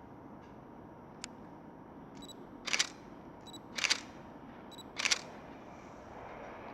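A single-lens reflex camera beeping briefly and then firing its shutter three times, about a second apart, each a short sharp clack.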